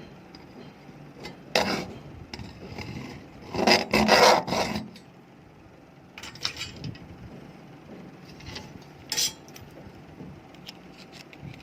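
Scraping and rubbing on a laptop battery pack as it is worked apart by hand, in irregular bursts; the longest and loudest comes about four seconds in.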